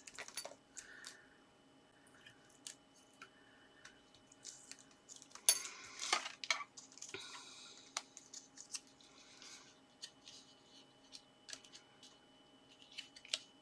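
Card stock being handled and folded: scattered paper rustles, light taps and creases, with a louder tap and rustle about five and a half seconds in, over a faint steady hum.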